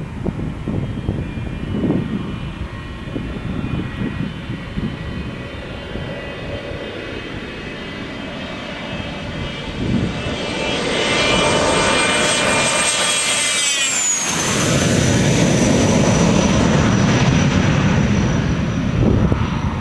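Twin-turbofan Cessna Citation jet at takeoff power, its high turbine whine over a low rumble, growing louder as it approaches. About two-thirds of the way through the whine drops in pitch as the jet passes, leaving a broad roar.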